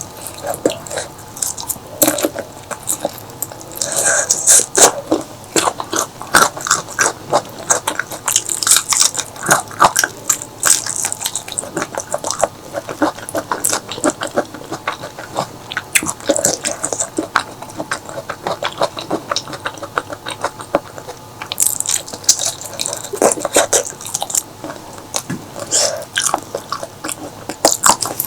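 Close-miked eating: wet chewing and smacking of curry with rice, with frequent sharp clicks and crunches of biting, loud and irregular throughout.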